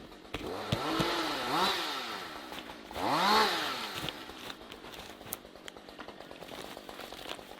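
Two-stroke chainsaw being revved in short blips, its pitch rising and falling three times in the first few seconds, the last blip the loudest, then dropping back to a faint idle.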